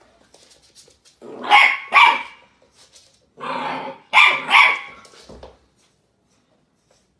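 A dog growls and barks in two bursts, each a short growl followed by two loud barks in quick succession.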